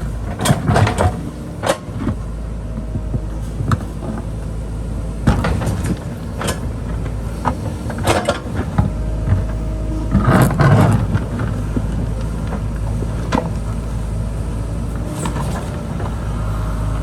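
JCB backhoe loader's diesel engine running steadily while it digs, with repeated knocks and scrapes of the bucket on rock and soil, loudest about ten seconds in.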